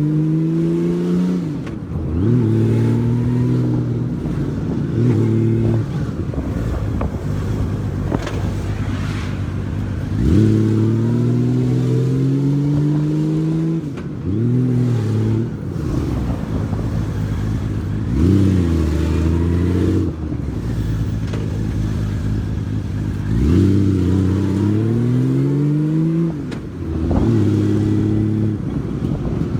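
Honda Valkyrie motorcycle's flat-six engine heard from the saddle, revving up and easing off again and again as it pulls away in short bursts through slow traffic.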